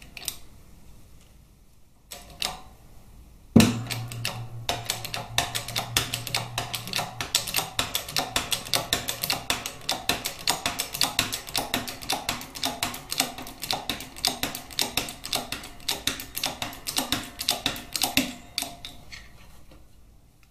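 A pressing tool being worked to push the countershaft bearing out of a Harley-Davidson Twin Cam gearbox case: a sharp knock about three and a half seconds in, then a long run of rapid, even clicks, several a second, that stops near the end.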